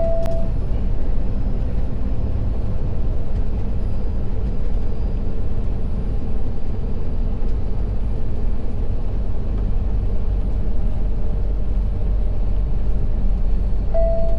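Truck driving at steady speed: a constant low rumble of engine and road noise. A short beep sounds at the start and again near the end.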